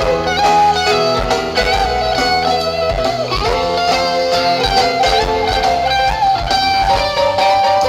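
Live rock band playing an instrumental passage: an electric guitar lead with bending, sustained notes over bass and drums.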